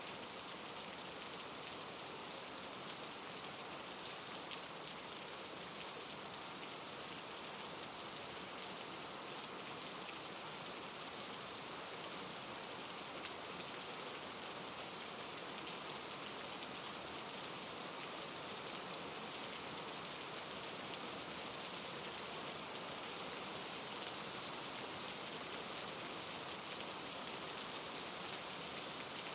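Steady soft rain falling and pattering on a surface, a continuous even hiss thick with small drop ticks.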